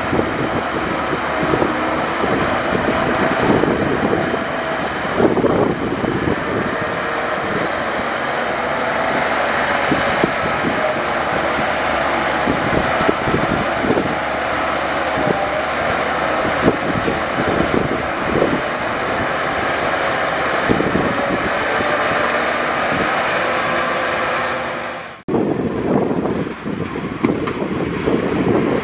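Heavy diesel earthmoving machinery working, the engine running steadily under wavering whining tones, with frequent clanks and rattles. The sound breaks off abruptly about 25 seconds in and resumes duller.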